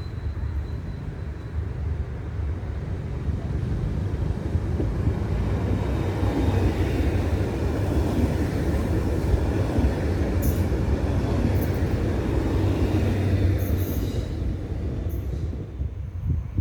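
Koleje Śląskie EN75 electric multiple unit running along the station track with a low rumble that swells to its loudest over several seconds, then dies away near the end. A few brief high-pitched squeaks come in the second half.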